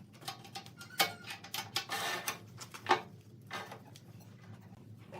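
Irregular sharp clicks and knocks of hard objects, with a brief scraping rustle about two seconds in.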